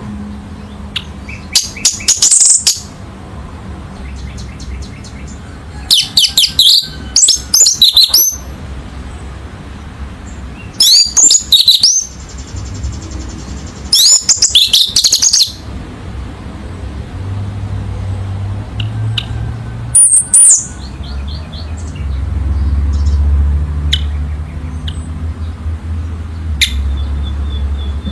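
Orange-headed thrush (anis merah) singing: loud bursts of rapid, high-pitched warbled phrases, about five of them a few seconds apart, over a low steady hum.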